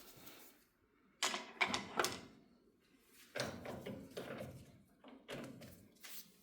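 Metal tooling being handled at a lathe: a series of short clinks and knocks, in three or four clusters, as parts are set against the machine.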